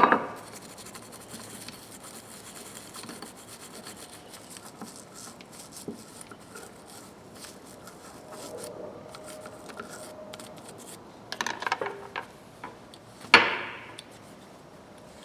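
Small toothbrush scrubbing old dried grease out of a Snap-on ratchet, a steady brushing with fine ticks. A few clinks come about eleven seconds in, with a sharp knock shortly after.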